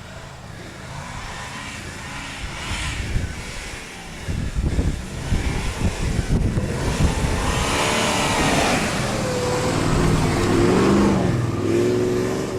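Car engine revving under load as it is driven over a rough off-road track, growing louder as it comes closer, with the engine pitch rising and falling in the last few seconds.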